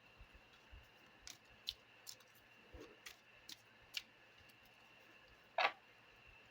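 Faint, scattered clicks and taps of a Lenormand card deck being handled and shuffled, with one louder tap a little before the end.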